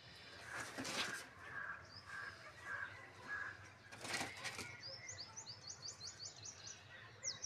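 Small birds chirping: a repeated mid-pitched call note in the first few seconds, then a quick run of high, rising chirps about five seconds in. Two brief rushes of noise, near the start and around the middle, are the loudest sounds.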